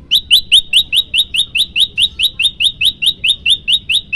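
Prenjak lumut, a prinia, singing a rapid, even series of sharp rising chip notes, about five a second, starting abruptly.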